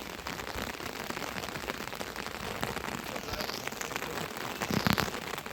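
Steady rain pattering, with a short, loud knock near the end.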